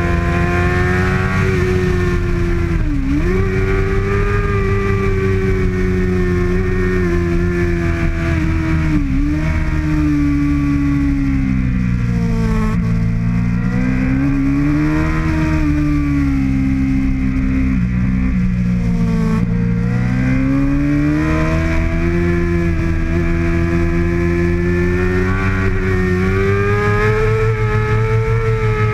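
2013 Kawasaki ZX-6R's 636 cc inline-four engine running hard under race load. The pitch dips sharply and recovers about 3 and 9 seconds in, and falls and climbs back twice in the middle as the revs drop and build again.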